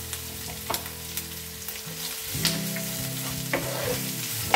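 Chopped onions, green chillies, garlic and curry leaves sizzling in hot coconut oil in a non-stick frying pan, stirred with a wooden spatula that scrapes and knocks against the pan several times, the sharpest knock near the end. A steady low hum runs underneath.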